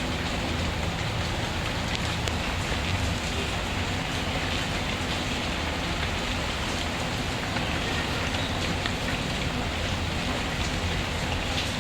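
Steady rainfall mixed with a crackling wood fire: a constant even hiss of rain, with scattered faint crackles and pops.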